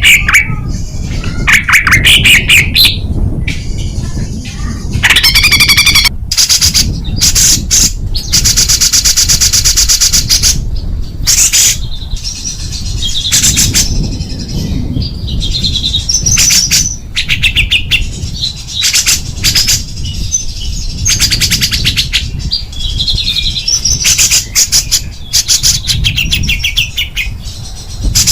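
Small songbird singing rapid, harsh bursts of fast repeated high notes and buzzy trills, phrase after phrase with short gaps between them, over a steady low background rumble.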